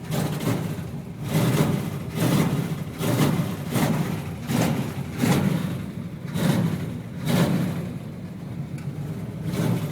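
1972 Chevrolet Chevelle's V8 running just after a cold start, its note swelling and falling about every three-quarters of a second.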